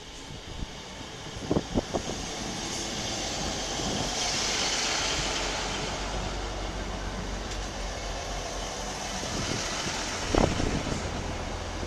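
Class 158 diesel multiple unit running past along the platform: a steady rumble and hiss that swells as the coaches come alongside, with a quick run of three sharp clunks from the wheels over the rail joints about a second and a half in, and a louder clunk near the end.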